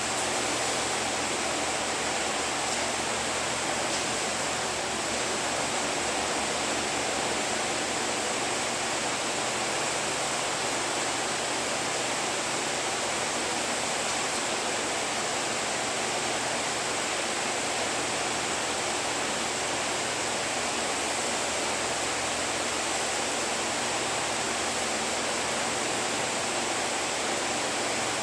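Steady, even hiss of rushing air, unchanging throughout.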